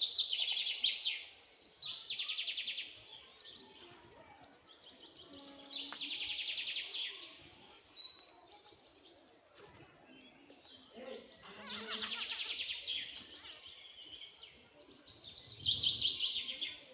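A bird singing: a high, rapid trilled phrase that slides down in pitch, repeated about five times with pauses of a few seconds between.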